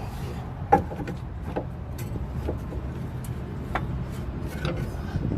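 Scattered knocks and clinks of hand work on a car's front suspension and axle, the sharpest a bit under a second in, over a steady low hum.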